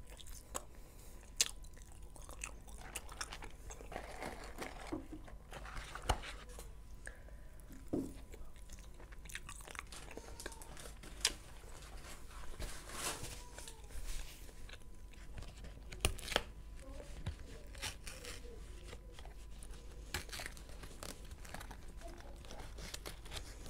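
Close-miked chewing and crunching of McDonald's french fries, with wet mouth clicks and irregular sharp bites. Near the end, the rustle and crinkle of paper packaging as the hands work in the food boxes.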